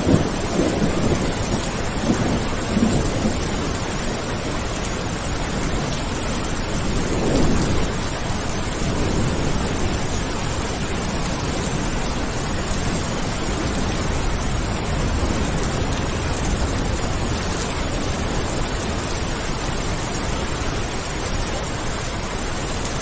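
Steady rain with thunder rumbling: low rumbles at the start, again about two seconds in and about seven seconds in, then rain alone.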